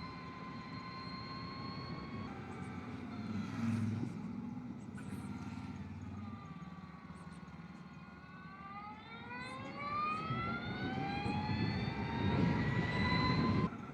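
Energica Experia electric motorcycle's motor whine while riding, over a low rumble: steady at first, sinking as the bike slows, then rising in pitch as it accelerates hard in the second half, cutting off suddenly near the end.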